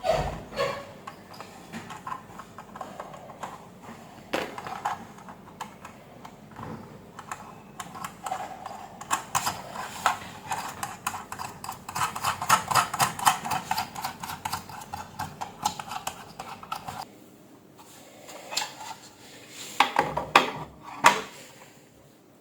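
Rapid clicking and clattering of small hard parts and tools being handled, densest in the middle, with a few sharper knocks near the end.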